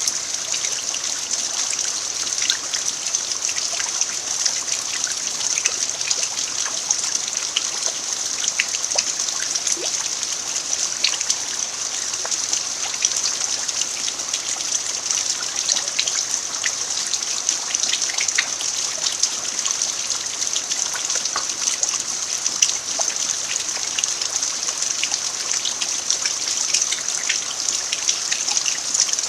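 Steady rain falling on a dirt yard, a constant hiss with many scattered individual drop ticks and trickling runoff.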